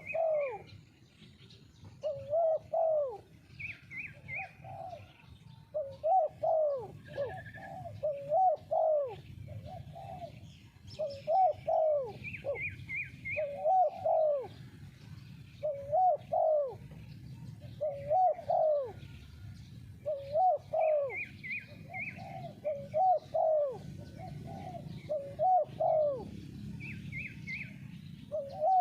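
Spotted dove cooing over and over, a short phrase of a few hooting notes about every one to two seconds. Small birds chirp in quick trills several times in between.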